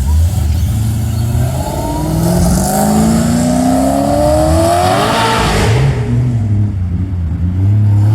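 A car accelerating hard as it leaves, its engine note climbing steadily in pitch for about three seconds and peaking as it passes, then falling away, over the low rumble of other engines idling.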